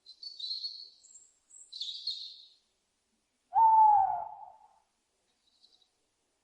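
An owl gives one loud hoot, about a second long, falling in pitch, about three and a half seconds in. Before it come high, thin bird chirps.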